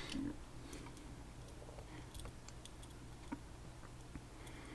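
Faint, scattered small metallic ticks and clicks of a pick working the pins inside a Tesa TK100 dimple lock, with a couple of sharper clicks near the end.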